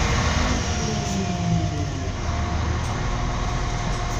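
Passenger train running, heard from inside the carriage: a steady rumble of wheels on rail with a low hum that falls in pitch as the train slows.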